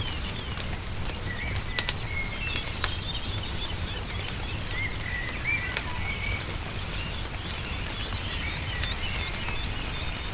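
Songbirds chirping and twittering over the sharp pops and crackles of a wood fire, with a steady low rumble underneath. The pops are scattered, and a few stand out about two seconds in.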